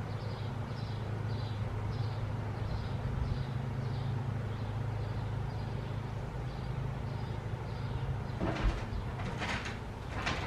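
A steady low mechanical hum, with a faint high chirp repeating about twice a second over it, and a few brief rustling noises near the end.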